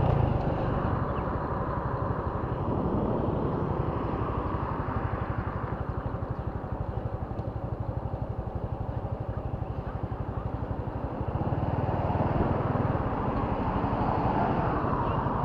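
Motorcycle engine running steadily while riding along, its exhaust pulsing rapidly and evenly.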